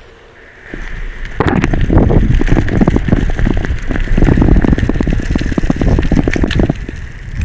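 Mountain bike ridden on wet ground in the rain: wind on the microphone, tyre noise and rattling clicks. It is quiet for about the first second, then loud from about a second and a half in.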